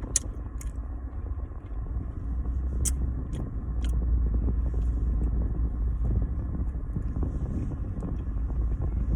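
Chewing on a doughnut, with a few sharp mouth clicks in the first few seconds, over the steady low rumble of a car cabin.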